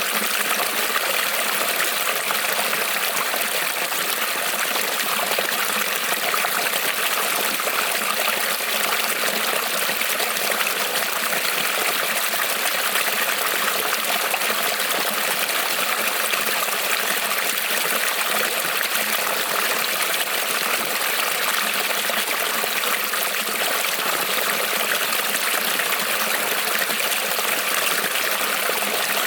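Small creek rippling and trickling over stones, a steady, even rush of water.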